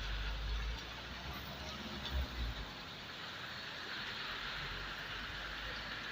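Steady hiss of rain falling, with low bumps of wind or handling on the microphone near the start and again about two seconds in.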